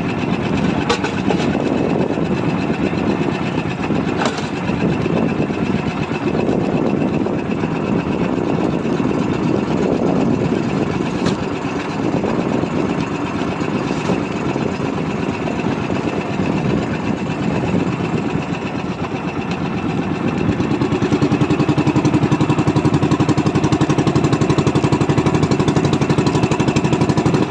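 Fishing boat's engine running steadily, growing louder and more even about twenty seconds in as it picks up.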